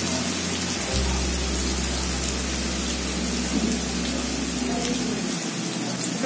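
Ground spice paste sizzling as it sautés in hot oil in a wok, a steady crackling hiss; the paste is being fried until fragrant.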